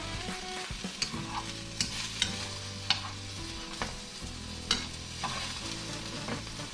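Tacos frying in oil in a frying pan, sizzling steadily, with about six sharp clicks of a utensil against the pan as the fried tacos are lifted out.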